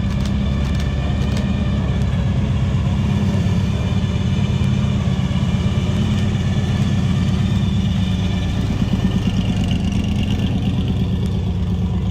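Custom 1964 Dodge D100 pickup's engine running loudly at low speed as the truck rolls in, with a fast, even pulse.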